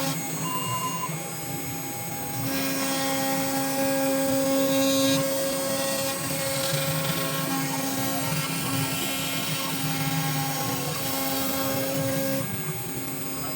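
CNC router spindle running with a steady whine, cutting a panel; a harsher hiss of the cutting comes in about two and a half seconds in and drops away near the end.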